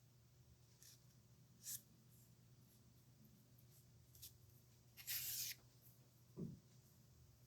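Pen nib scratching across paper in a few short strokes, then one longer, louder stroke about five seconds in. A soft low thump follows a second later.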